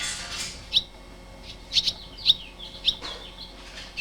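Fledgling songbirds and their parent chirping: short, sharp, high chirps, about one every half second to second. A brief rustle at the start and another about three seconds in.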